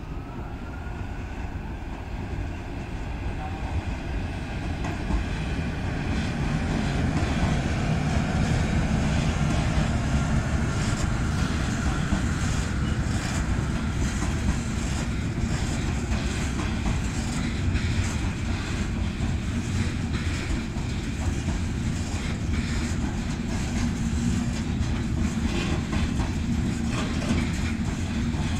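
Freight train passing: a rumble of rolling wagons that grows louder over the first several seconds and then holds steady, with the rapid clicking of wheels over rail joints from about ten seconds in.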